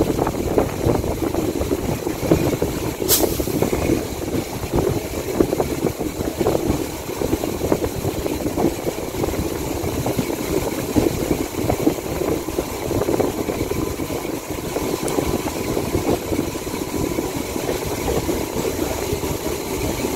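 Electric local train running at speed, heard from an open doorway: a steady, dense rumble of steel wheels on the rails. One brief sharp click about three seconds in.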